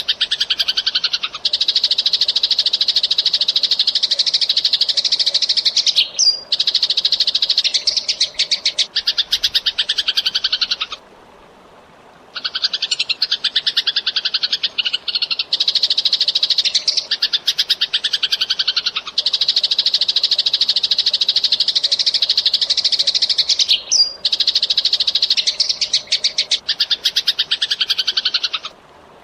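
Eurasian tree sparrow calling in very rapid, dense chirping that runs on without a break for several seconds at a time, pausing about eleven seconds in and again near the end.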